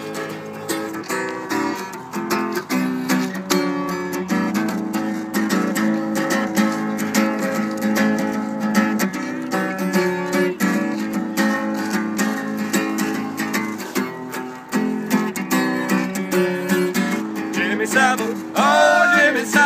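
Strummed acoustic guitar playing the chords of a song's instrumental intro, with a singing voice coming in near the end.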